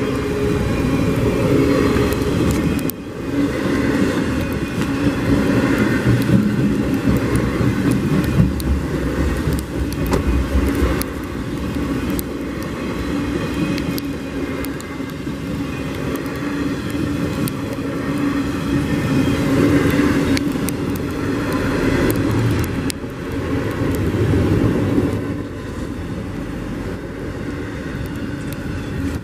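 Freight cars of a Norfolk Southern intermodal train rolling past at speed: a steady loud rumble of steel wheels on rail, with scattered sharp clicks over the rail joints and crossing.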